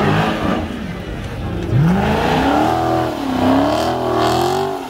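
A car engine revving hard. Its pitch climbs steeply about two seconds in, then rises and falls several times as the throttle is worked.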